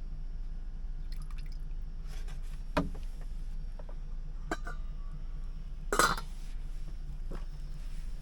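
A few sharp clinks and knocks of kitchenware being handled, the loudest about six seconds in, over a steady low hum.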